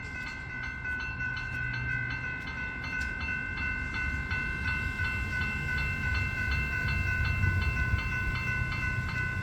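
Level crossing warning bells ringing continuously with rapid, evenly repeated strikes: General Signal electromechanical bells, an adjusted Type 1 and a Type 3, sounding because the crossing has activated for an approaching train.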